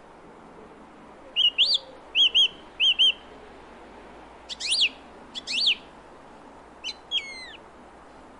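A songbird singing in short phrases of clear whistled notes: three quick paired chirps, then two louder swooping notes, then a falling note near the end, over a faint steady background hiss.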